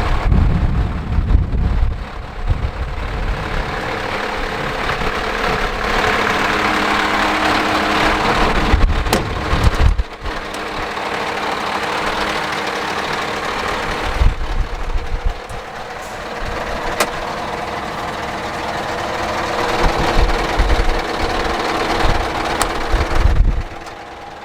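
Scania R560's V8 diesel truck engine running. It is louder between about six and ten seconds in, then drops suddenly.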